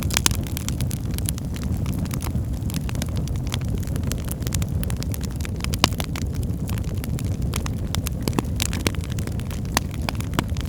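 Wood fire burning in a fireplace: a steady low rumble with frequent sharp crackles and pops, the loudest right at the start and about six seconds in.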